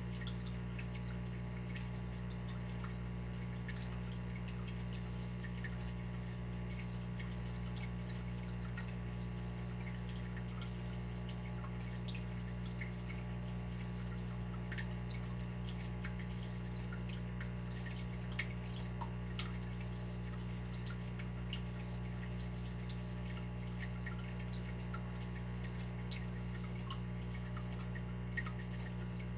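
Water dripping: many small, irregular drips over a steady low hum.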